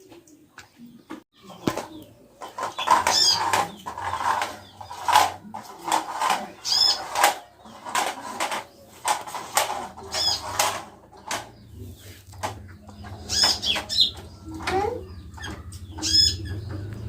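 Konin songbird giving short high chirping calls every few seconds, amid a busy run of quick clicks and fluttering strokes.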